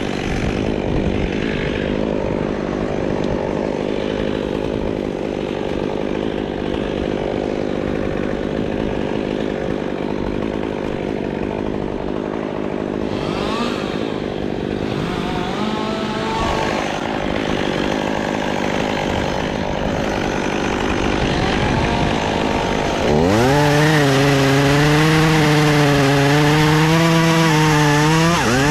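Chainsaw running, with a few brief revs in the middle. About 23 seconds in it is throttled up to high revs and held there, its pitch wavering slightly as it cuts into wood.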